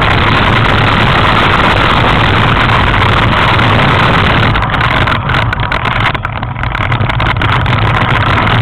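A loud, steady engine running under a heavy rush of noise, dipping briefly about six seconds in.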